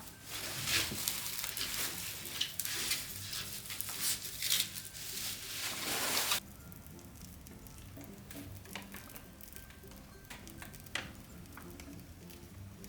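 Wood fire crackling and hissing in a fireplace, dense sharp pops over a steady hiss, cutting off abruptly about six seconds in. After that, only faint scattered clicks.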